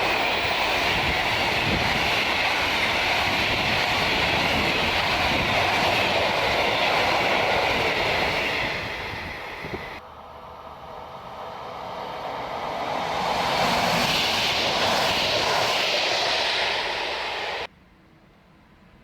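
Freight train passing through a station, its loud steady noise fading away. After an abrupt cut, another train's noise rises and swells to full loudness, then cuts off suddenly near the end.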